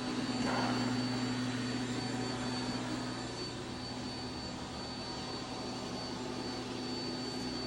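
A steady mechanical hum and whir with a faint, constant high whine.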